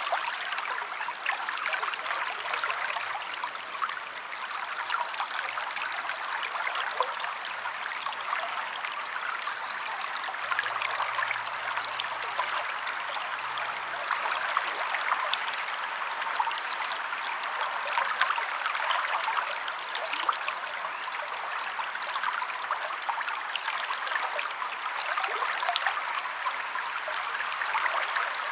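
A stream flowing over stones, a steady rush of splashing and trickling water. A few faint high chirps come now and then.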